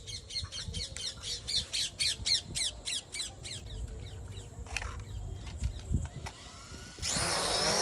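A bird gives a rapid series of short descending squawks, about four a second, for the first few seconds. About seven seconds in, a radio-controlled aircraft's motor starts with a loud, steady whine.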